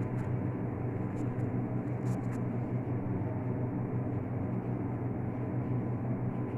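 Steady machine hum, a low drone with a faint high tone running through it, typical of a running fan or appliance motor. A few faint light ticks from food being handled sit on top.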